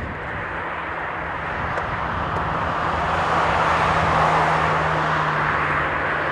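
Boeing 747-400 jet engines on landing approach: a steady jet roar that grows louder as the airliner comes nearer, with a steady low hum beneath it.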